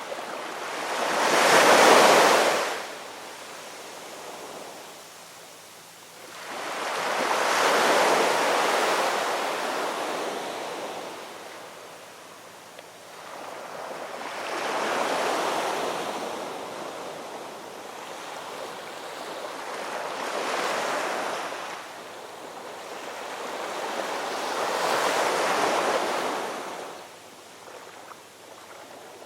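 Ocean waves washing in, rising and falling in about five slow surges of a few seconds each, the first the loudest.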